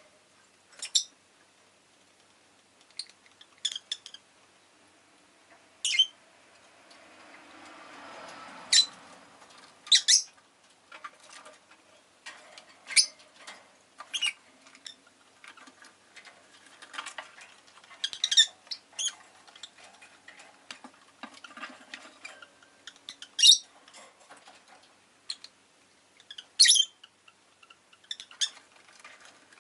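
Rosy-faced lovebirds giving short, sharp chirps at irregular intervals, sometimes in quick pairs or clusters. About a third of the way in, a faint rush of background noise swells and fades.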